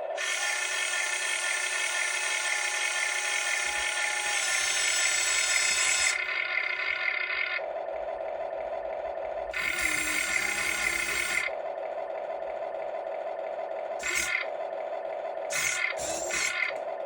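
Huina RC excavator's electric motors and gearboxes whirring in bursts as it is worked: one long run of about six seconds, another of about two seconds, then several short jabs near the end, over a steady hum.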